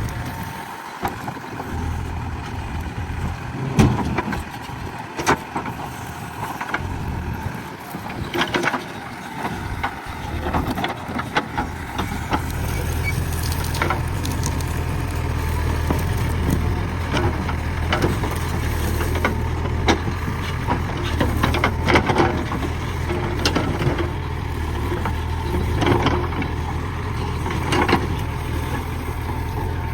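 JCB backhoe loader's diesel engine running, pulling harder and steadier from about twelve seconds in. Repeated sharp cracks and knocks of the machine at work are heard throughout.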